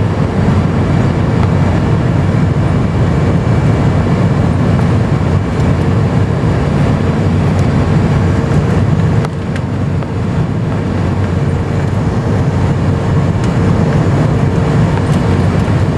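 Steady, loud cabin noise inside an Airbus A350-900 with Rolls-Royce Trent XWB engines, heard from a window seat: a broad rumble of engines and airflow with a steady hum under it, briefly dropping in level about nine seconds in.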